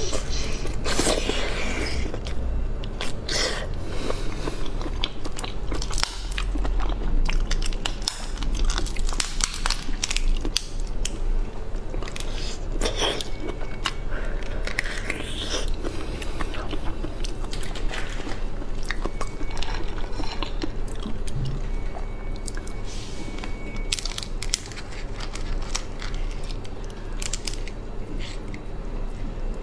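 Close-up biting and chewing of raw shrimp meat, with many small wet clicks and smacks. Near the end, shrimp shell is pulled apart by hand.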